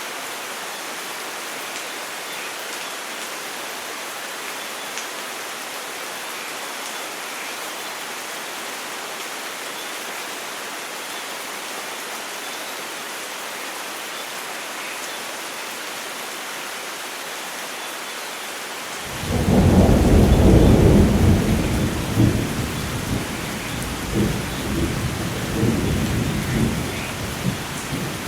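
Steady heavy rain hissing, then about 19 seconds in a loud clap of thunder breaks in and rolls on as a long, uneven rumble over the rain.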